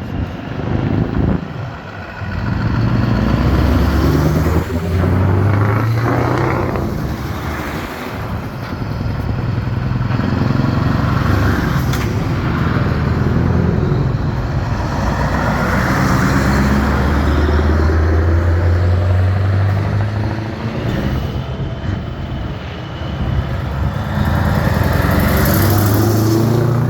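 Vintage trucks driving past one after another, their engines swelling and fading as each goes by.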